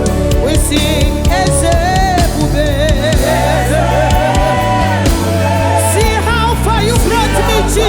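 Live gospel praise-and-worship music: the band plays steadily with a strong bass while voices sing wavering, ornamented melody lines over it.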